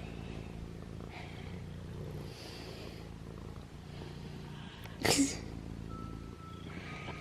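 Domestic cat purring close by: a steady low purr that swells and eases with each breath. A brief louder noise cuts in about five seconds in.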